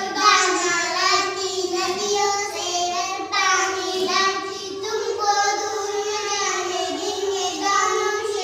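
A child singing a Hindi children's poem in a sing-song melody, in continuous phrases.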